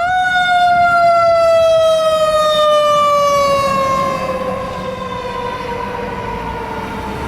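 Fire engine siren on a 2013 Ferrara Igniter pumper, one long wail that climbs sharply at the start and then slowly falls in pitch. It gets a little quieter about four seconds in.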